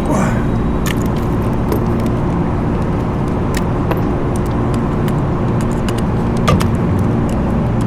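Steady low mechanical drone with a few fixed low hums, with scattered light clicks and clinks of metal tools.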